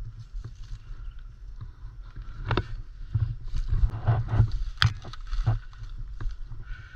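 Irregular rustling and crunching, like footsteps through dry leaves and brush, with a few sharp snaps (the loudest about five seconds in) over a steady low wind rumble on the microphone.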